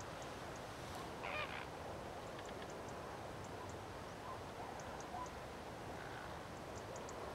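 A large bird gives one honking call about a second in, followed by a few fainter short calls, over steady background noise.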